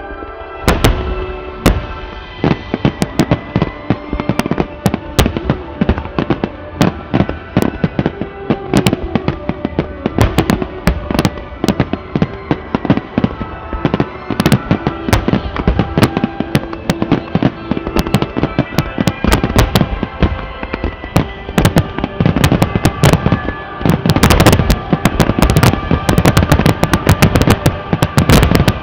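Japanese starmine fireworks finale: rapid volleys of shell bursts and bangs over loud music from the venue's speakers. The bursts come thickest near the end.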